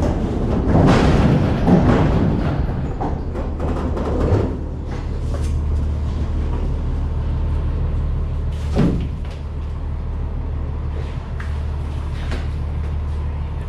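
A steady low engine hum, likely the box truck idling, runs under rattling and banging from cargo being handled. The clatter is heaviest in the first four seconds, and a single sharp knock comes near nine seconds in.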